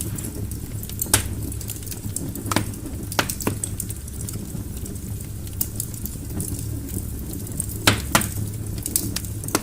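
Logs burning in a fireplace: a low steady rumble of flames under constant fine crackling, with several sharper pops from the wood.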